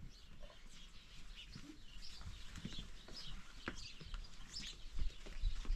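Birds chirping in many short, high, scattered peeps, with a few light clicks and knocks.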